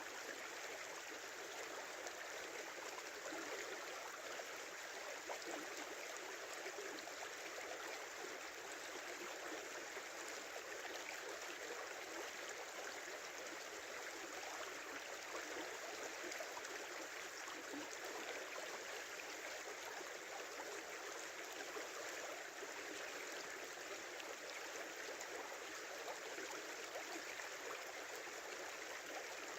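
Small river flowing steadily: an even, unbroken rush of running water.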